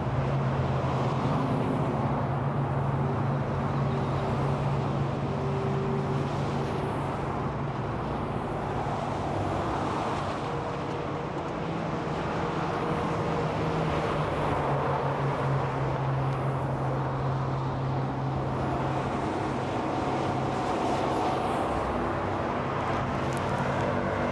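Steady freeway traffic: a continuous wash of tyre and engine noise from cars and trucks, with a low engine hum and the whine of individual vehicles passing now and then.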